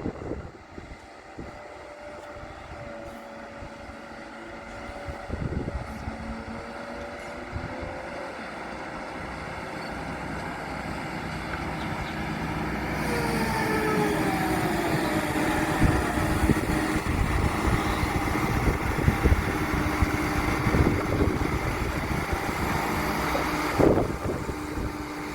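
Heavy diesel machinery running, growing steadily louder through the second half, with a few squealing tones that slide downward in the middle and a sharp knock near the end.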